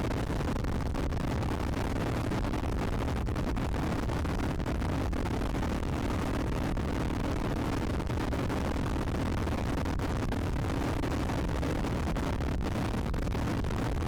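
Royal Enfield Classic 350's single-cylinder engine held flat out near its top speed of about 120 km/h, under heavy wind rush over the microphone. The sound stays steady, with no change in revs.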